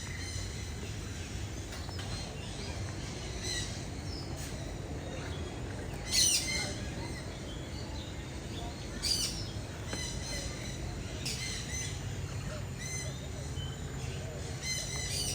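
Captive aviary birds calling: a series of short calls every two or three seconds, the loudest about six and nine seconds in, over a steady low background rumble.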